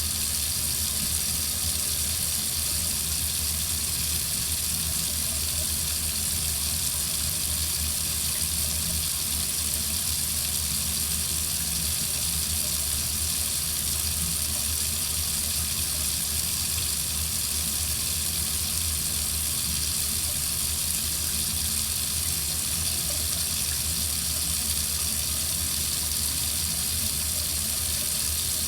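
Water running steadily from a faucet into a sink, an even rush of water that does not change.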